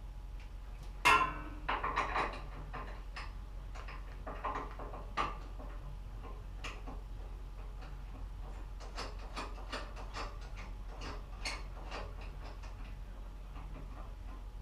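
A sharp clank about a second in, a few more knocks just after, then scattered light clicks and taps over a steady low hum.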